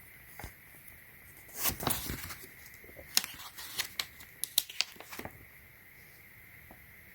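Unboxing packaging being handled: a brief rustling about one and a half seconds in, then a run of sharp clicks and crinkles for about two seconds.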